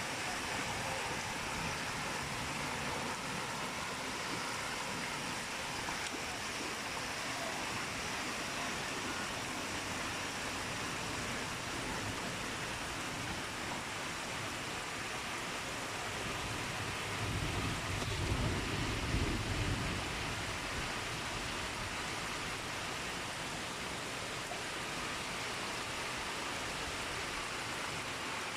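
Heavy rain, a steady even rush of water noise. A low rumble swells for a few seconds about two-thirds of the way through.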